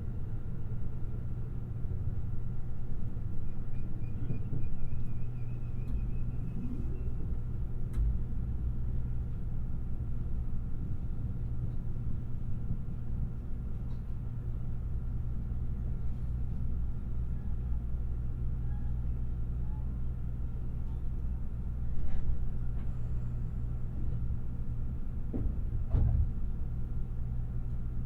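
Limited Express Shirasagi train running at speed, heard from inside: a steady low rumble of wheels on rail, with a few sharp knocks from the track spaced several seconds apart.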